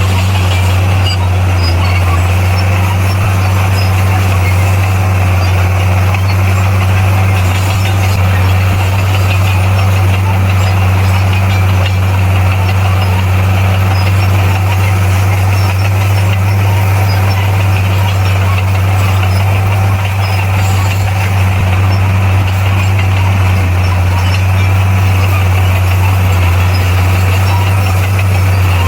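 A bulldozer's diesel engine running at steady revs: one deep, even hum that does not change.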